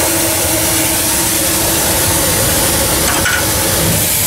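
Steady, loud hiss of a steam blower ring in a fire-tube boiler, steam jetting up the stack to force draft through the fire, with a faint steady hum underneath.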